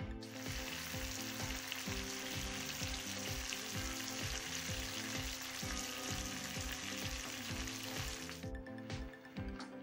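Marinated chicken pieces sizzling as they shallow-fry in oil and butter in a kadai, a dense steady hiss that cuts off suddenly about eight seconds in. Background music with a steady beat plays under it.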